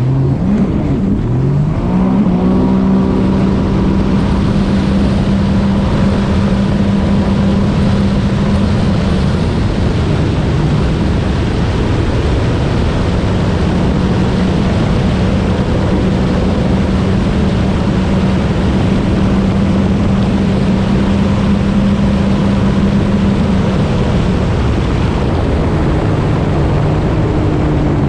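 Supercharged Sea-Doo RXP-X 300 jet ski with a Riva Racing exhaust, accelerating over the first couple of seconds, then running steadily at high speed with a rushing noise of water and air. The engine note eases slightly near the end.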